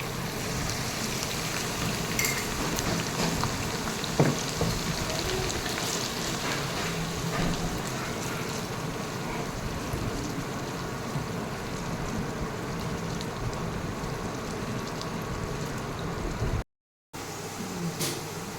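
Food sizzling and crackling in hot oil in a cooking pot, a steady frying sound with one sharp knock about four seconds in. The sound cuts out for a moment near the end.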